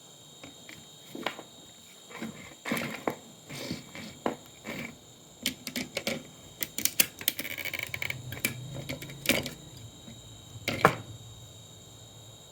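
Irregular clicks, taps and knocks of hard parts being handled while an old computer monitor is taken apart, with a stretch of scraping about two-thirds of the way in and one sharp knock near the end.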